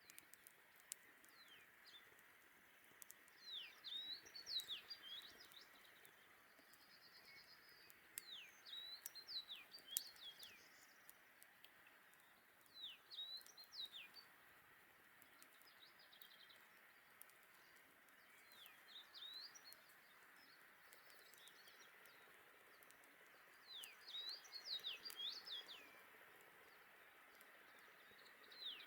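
A songbird singing short phrases of high, quickly falling notes, repeated every four to five seconds, over a faint steady hiss.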